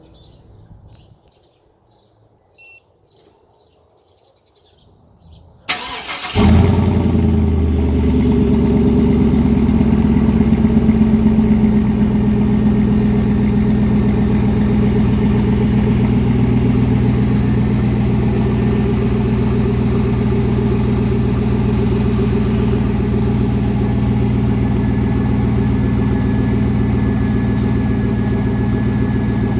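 Faint bird chirps, then about six seconds in a 2001 Chevrolet Silverado's 5.3-litre V8 cranks briefly and catches on a cold start. It settles into a loud, steady fast idle through a Carven muffler.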